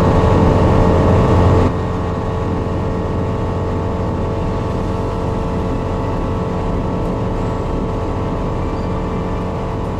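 Ultralight aircraft engine running steadily at high power. The level drops suddenly about two seconds in, then holds steady.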